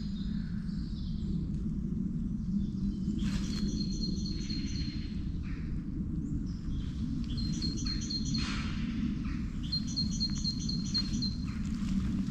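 A songbird sings several times, each phrase a quick run of evenly spaced high notes, over a steady low rumble.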